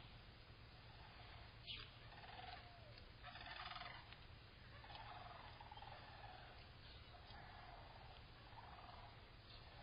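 Faint animal calls, each about half a second long, repeated every second or so, after a sharp click and a short rustling burst.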